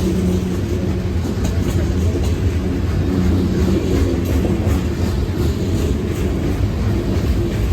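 CSX manifest freight train rolling past: a steady, loud rumble of railcars with faint clickety-clack of wheels over the rail joints.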